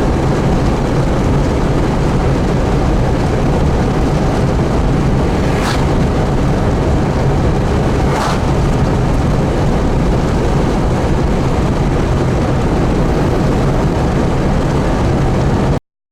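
Steady road and engine noise inside a moving car, with a low hum throughout and two brief sounds a couple of seconds apart midway. The sound cuts off abruptly near the end.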